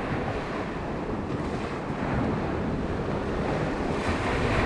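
Surf washing onto the beach, with wind buffeting the microphone in a steady rushing noise.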